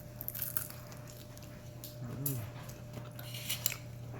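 Crispy air-fried chicken wings crunching as they are bitten, in two bouts of crackling. About two seconds in comes one short, low hummed "mm" of a person eating.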